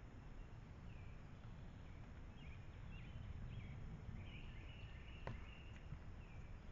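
Quiet outdoor ambience: a steady low rumble with short chirps repeating every second or so, and a single sharp click about five seconds in.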